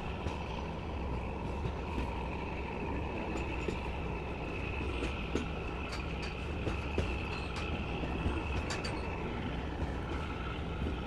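Passenger train running, heard from on board: a steady low rumble of wheels on the track, with scattered clicks and rattles and a faint high steady whine, as the train climbs a gradient.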